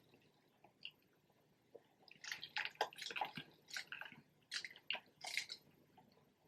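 Close-miked chewing: a quick run of short, wet, crackly mouth clicks and smacks, starting about two seconds in.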